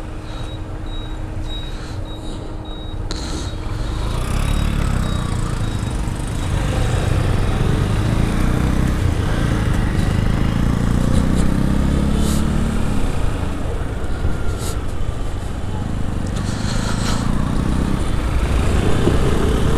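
Motorcycle engine running while riding, with road and wind noise on the helmet camera; it grows louder about four seconds in and stays up.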